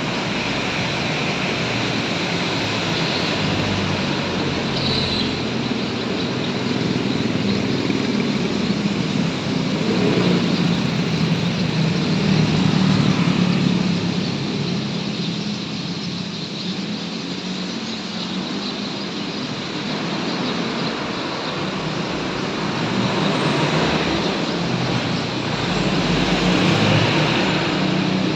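Road traffic passing along a street: a continuous rumble of engines and tyres that swells as vehicles go by, about ten seconds in and again near the end, over a steady higher hiss.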